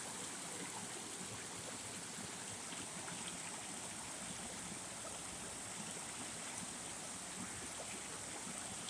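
A small creek's water running over rocks, a steady trickling flow.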